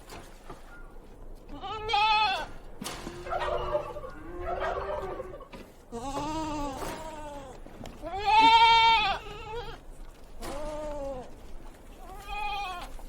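Goats bleating: a series of separate bleats about every two seconds, the loudest one a little past the middle.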